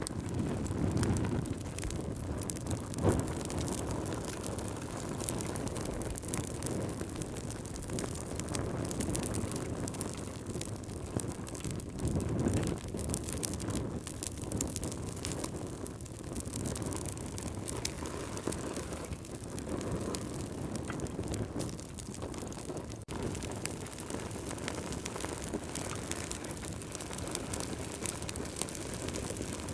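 Campfire burning, crackling steadily with frequent small pops over a low rush of flame, with one louder pop about three seconds in.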